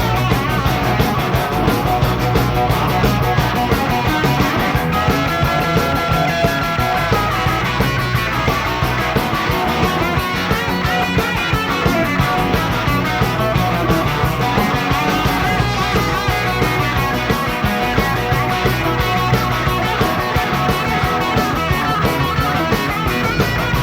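Live rock band of two electric guitars, bass guitar and drums playing an instrumental break without vocals, with held and bending guitar lines over a steady beat.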